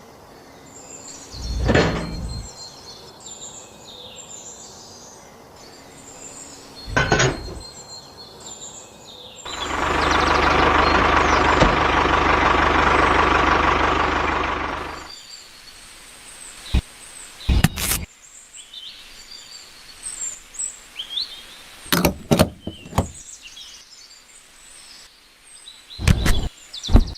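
Birds chirping in the background, broken by a few knocks, with a loud, steady, noisy stretch of about five seconds in the middle.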